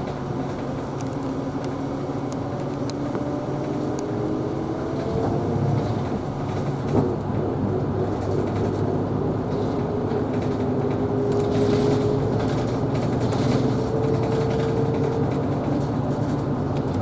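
Isuzu Erga Hybrid city bus under way, heard from inside near the front: a steady low engine drone with a whine that rises slowly in pitch as the bus gathers speed, and a single knock about seven seconds in.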